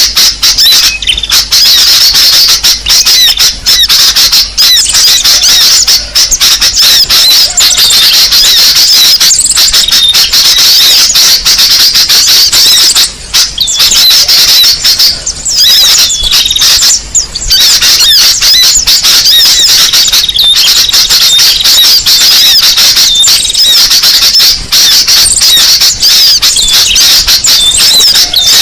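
Small-bird lure recording (suara pikat): dense, rapid high-pitched chirping and twittering of small birds, loud and continuous, with a few brief breaks in the middle. It is played to call small songbirds in.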